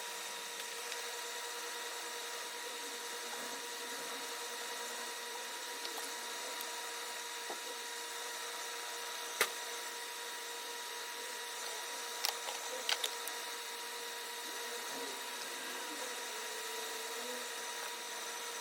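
Steady hiss with a constant hum, broken by a few short sharp clicks, one about halfway through and a small cluster a few seconds later.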